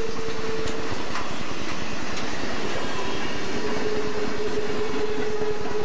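Southern Pacific freight cars rolling past, wheels rumbling and clattering on the rails. A steady high wheel squeal fades out about a second in and comes back about three seconds in.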